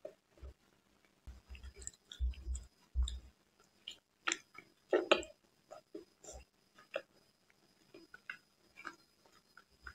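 Close-miked mouth sounds of a person eating soft Indian sweets: wet chewing, smacks and lip clicks in irregular bursts. There are low thumps in the first few seconds, and a louder, denser burst of mouth noise around four to five seconds in, as another bite is taken.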